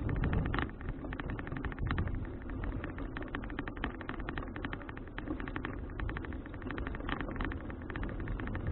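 Riding noise of a folding bicycle picked up by an action camera: a steady low wind-and-road rumble with dense, irregular clicking and rattling.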